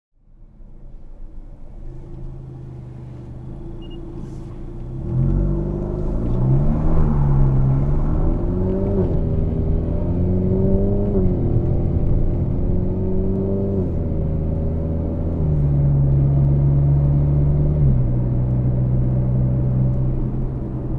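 Volkswagen Golf Mk8's turbocharged 1.4 TSI four-cylinder engine, Revo Stage 2 tuned, heard from inside the cabin as the car accelerates up through the gears. It is quiet at first and grows louder about five seconds in; the engine note then rises and drops back at each gear change several times before settling to a steady cruising drone.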